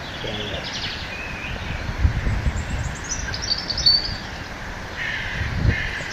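Birds calling: short, rapidly pulsed chirps and trills, with a run of falling notes about halfway through and harsher caw-like calls near the end. A few dull low thumps sound about two seconds in and again near the end.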